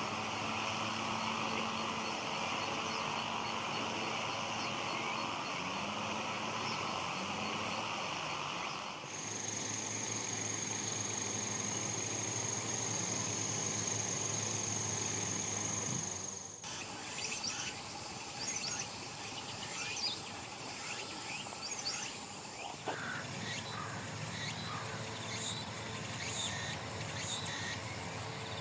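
Summer insects chorusing in a steady drone. This gives way to a single insect's steady high-pitched trill and then to small birds chirping, the sound changing abruptly twice.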